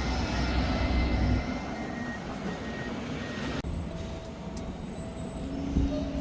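Garbage truck engine running steadily, a low rumble with a faint whine over it; the sound changes abruptly about three and a half seconds in.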